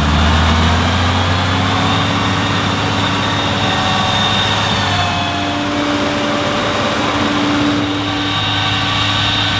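Heavy farm-machine engine running steadily, with a faint whine that rises slowly in pitch over the first several seconds.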